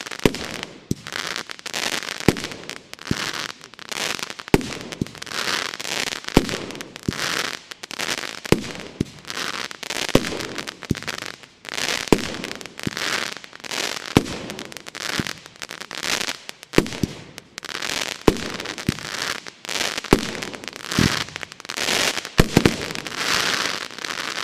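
Funke Duplex Cracker Rain firework battery firing shot after shot, about one a second, each a sharp bang followed by a short spray of crackling.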